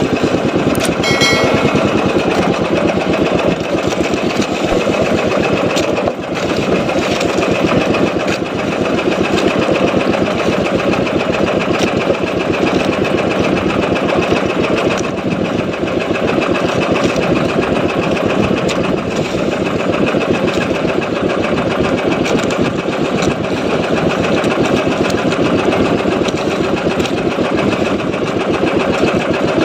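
Small boat engine running steadily at a constant speed, with a rapid, even firing.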